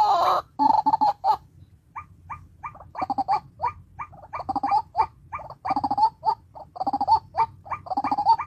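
A bird calling in a rapid series of short pitched notes, several a second, in uneven bursts.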